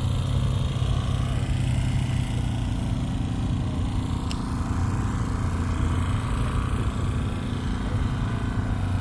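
An engine running steadily with a low, even hum. A single sharp click comes about four seconds in.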